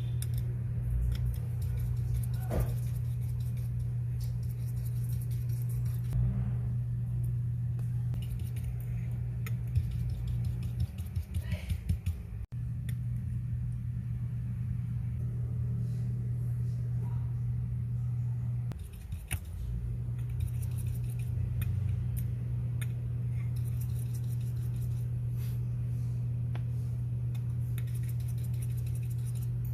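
A steady low hum runs under the work and breaks off briefly twice. Small metal clicks and light rattles of tools on watch parts sound over it, with a short cluster of rattling clicks about ten seconds in.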